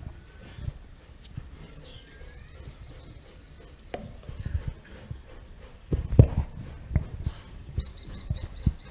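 A bird calling in quick runs of short, high, evenly repeated chirps, once in the middle and again near the end, with a thinner sliding whistle early on. Scattered low thumps and rumble sound beneath, loudest about six seconds in.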